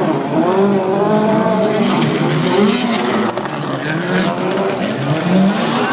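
Several rallycross race cars' engines revving hard on track, their overlapping notes rising and falling in pitch as the cars accelerate and lift.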